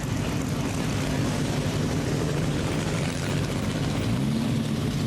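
An engine running steadily, its pitch wavering slightly about four seconds in.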